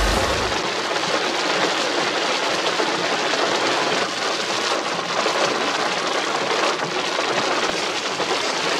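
Rain beating steadily on a car's windshield and body, heard from inside the cabin as an even hiss.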